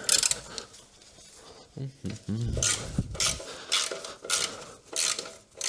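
Metal clinking and clattering of hand tools and small metal parts being handled: a string of short, sharp clinks, more of them in the second half.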